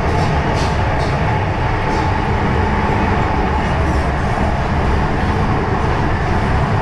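MTR M-Train electric multiple unit running steadily along the Tsuen Wan Line, with a continuous low rumble of wheels on rail and a steady whine above it.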